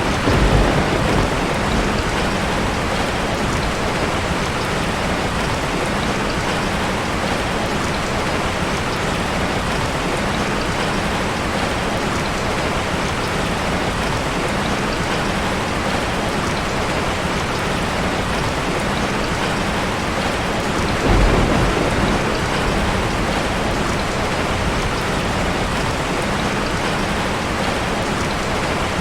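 Steady rain falling, an even hiss and patter throughout, with two low rolls of thunder: one right at the start and one about two-thirds of the way through.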